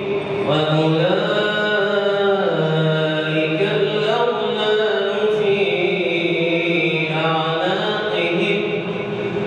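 A man's voice reciting the Quran in melodic tajweed chant, holding long drawn-out notes whose pitch rises and falls.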